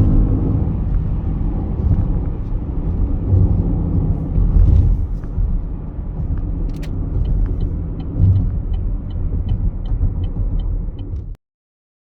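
Low steady rumble of a car on the move, with a regular ticking at about three ticks a second in the second half. The sound cuts off suddenly near the end.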